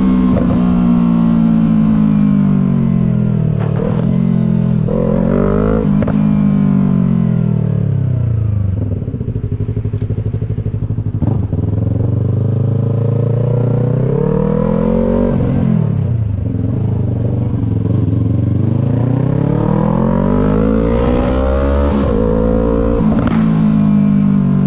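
Yamaha MT-03's parallel-twin engine through a Disarsz full aftermarket exhaust, on the move. Its pitch falls over several seconds as the bike slows, then rises and drops sharply through a few quick accelerations and gear changes, and climbs again near the end.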